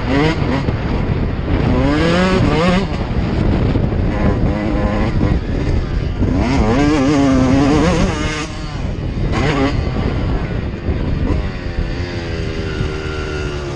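Dirt bike engine revving under way, its pitch climbing and dropping several times as the throttle is worked, over a constant rush of noise.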